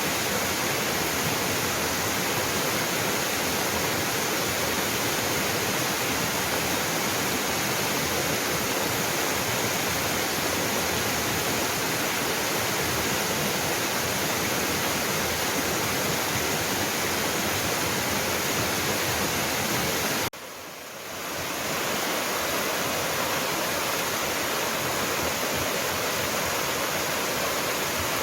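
Waterfall pouring steadily, a dense, even rush of falling water. About two-thirds of the way through it drops away abruptly for about a second, then swells back to the same steady rush.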